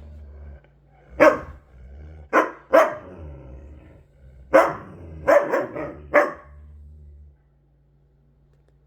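Huskies play-fighting: a series of about eight sharp barks in quick bursts over a low rumble. It all stops about seven seconds in.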